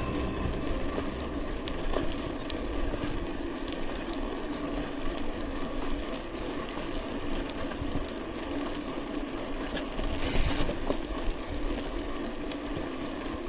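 Steady rolling and wind noise from a bicycle ride, with scattered light clicks and a short burst of hiss about ten seconds in.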